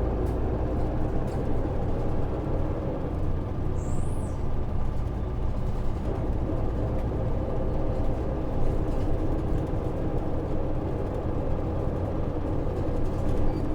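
Hino KV234 city bus's 6HK1 inline-six diesel running steadily while the bus drives along, heard from inside the passenger cabin. A brief high squeak comes about four seconds in.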